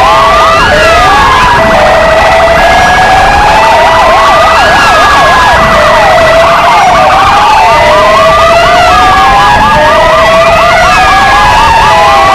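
Several police sirens sounding together: two PFA police motorcycle sirens and two Kingvox ERP sirens. They are loud and continuous, overlapping slow rising-and-falling wails, fast yelping sweeps and a stepped two-tone hi-lo.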